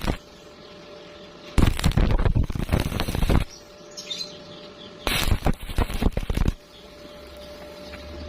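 Stick welding arc crackling in two bursts, the first about two seconds long and the second about a second and a half, with a faint steady hum in the pauses between them.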